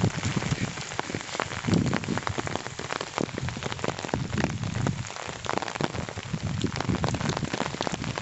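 Rain falling, with many separate sharp drop hits close to the microphone over a steady hiss. A low rumble of wind on the microphone comes and goes.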